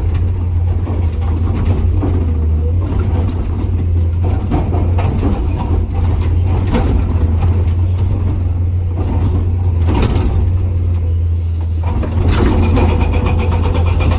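Komatsu PC200 excavator's diesel engine running with a loud, steady low drone, with scattered knocks of the hydraulic rock breaker on hard rock. About three-quarters of the way through it changes to a fast, even hammering with a metallic ring.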